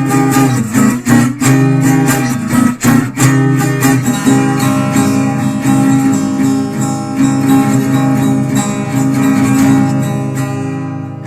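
Acoustic guitar strumming chords, with sharp strokes for the first few seconds, then chords left ringing and fading near the end.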